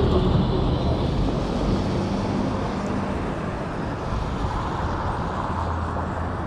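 City street traffic: a steady wash of vehicle noise with the low drone of engines passing.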